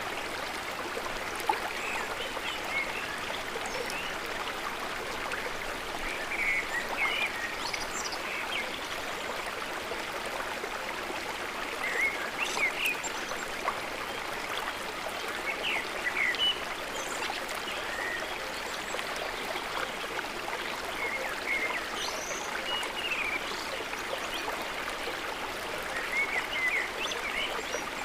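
Short, high chirping calls from chickens, a few every second or two, over a steady rushing noise like running water.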